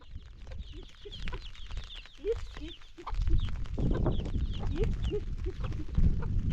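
Chickens clucking, a run of short calls, with a low rumbling noise coming in about three seconds in.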